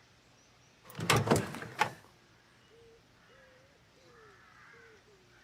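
A car door clunking shut, a quick cluster of knocks about a second in. After it comes faint birdsong of short repeated calls.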